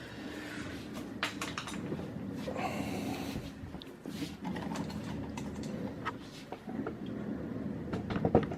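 Scattered clicks and knocks of hands working on a BMW Z3's trunk lid and its newly fitted gas struts, with a short hiss about three seconds in and a louder knock near the end.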